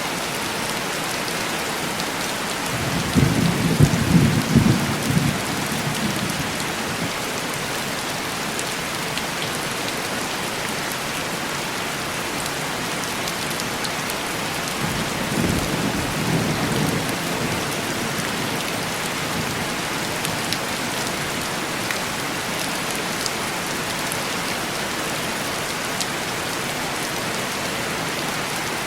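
Heavy rain falling steadily on window glass, with two rolls of thunder: a louder one about three seconds in and a softer one about fifteen seconds in.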